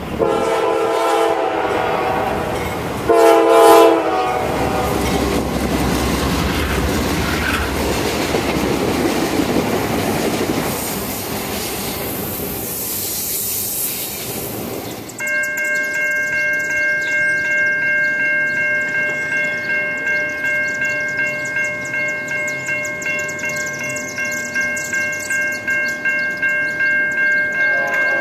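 Freight train locomotive's air horn sounding two blasts, the second shorter and louder, then the rumble of a double-stack container train passing. About halfway through, an electronic grade-crossing bell takes over, ringing in a fast, steady repeated ding.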